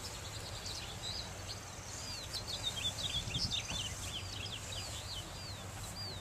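Small birds chirping over and over, short arching high notes coming thickest in the middle, over a steady outdoor background hum and a faint high hiss.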